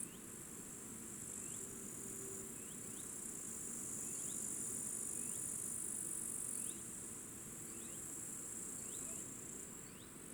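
Insects chirring in a high, steady band that swells and drops a few times, with a small bird giving short, repeated chirps about once a second.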